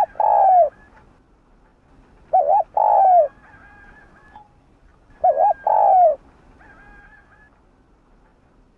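Spotted dove cooing: three phrases about every two and a half to three seconds, each a quick doubled note followed by a longer falling coo. Fainter, higher chirping calls come between the phrases.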